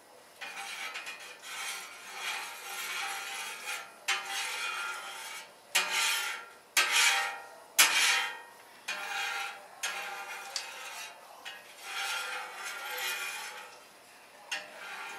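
Repeated rasping, scraping strokes against a metal grill. The loudest ones are sharp, about six to eight seconds in.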